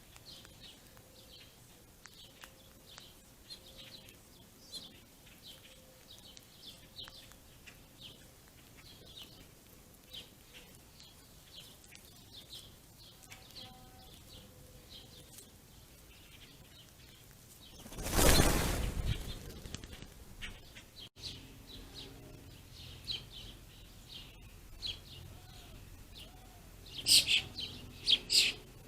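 A flock of small songbirds chirping, with many short high notes. About two-thirds of the way in there is one loud whoosh lasting about a second, and near the end a short burst of louder chirps.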